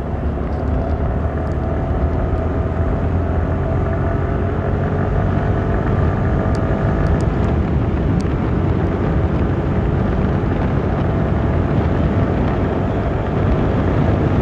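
Motorcycle engine running steadily while being ridden, with a low hum over a steady rush of wind and road noise.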